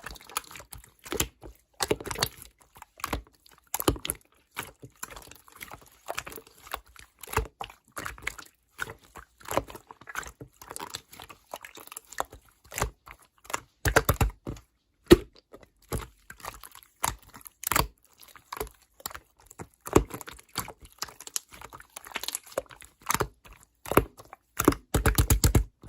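Bouncy slime being squeezed and pressed by hand, giving irregular sharp clicks and pops, with a quick run of pops near the end.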